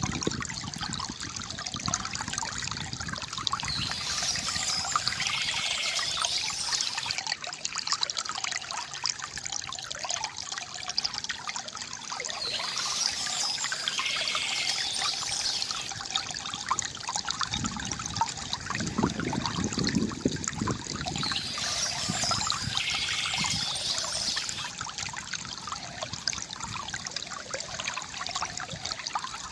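Water trickling and pouring steadily from a bamboo fountain, with a deeper gurgling splash about two-thirds of the way in.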